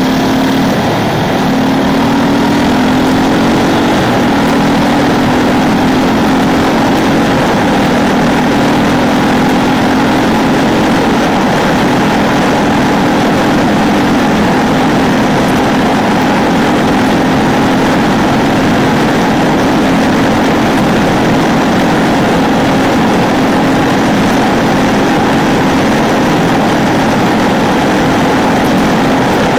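Ducati 999's L-twin engine pulling under load as the bike is ridden, its pitch climbing over the first few seconds, changing abruptly about four seconds in, then holding fairly steady.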